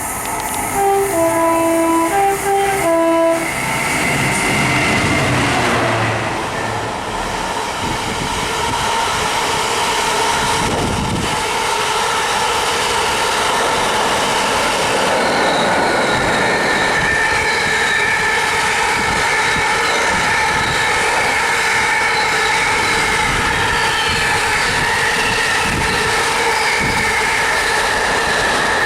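Train horn sounding a few short blasts on alternating notes, followed by the steady rumble and engine tones of a train running past on the line.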